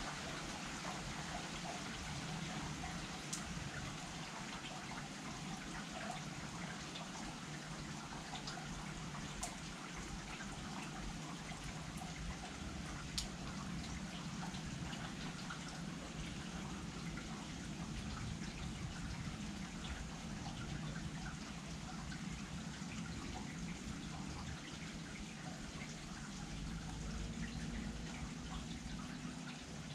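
Steady rain falling, with a scattered sharp drip now and then.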